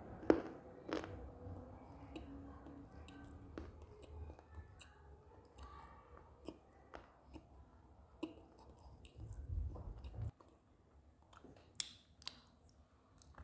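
Close-up bites and chewing of dry clay and slate pieces: a string of sharp crunches and cracks, the loudest right at the start. There is a short low rumble near the end.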